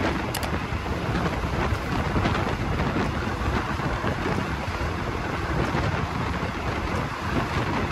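Steady rushing noise of a moving passenger train heard from on board: wheels running along the rails, with wind buffeting the microphone.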